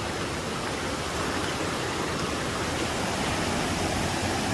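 Steady rushing of a river flowing over rocks with a waterfall close by.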